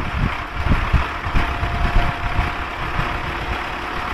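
A vehicle engine running, with irregular low knocks and rumbles over a steady noisy hum.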